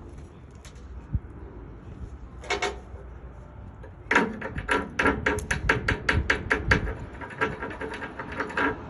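A hammer striking steel: one ringing blow, then from about four seconds in a quick run of ringing metal strikes, roughly five a second.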